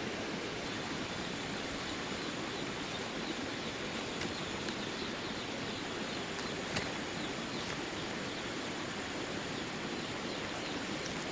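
Steady hiss of outdoor background noise, with a few faint clicks and taps.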